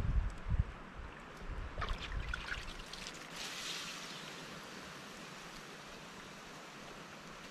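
Water lapping and trickling, with a brief splash about two seconds in, then a steady soft wash. Wind rumbles on the microphone in the first second.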